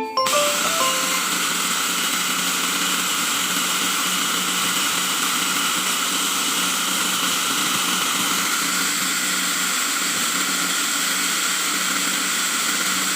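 A small electric motor running steadily, a constant hum with hiss over it, unchanging throughout.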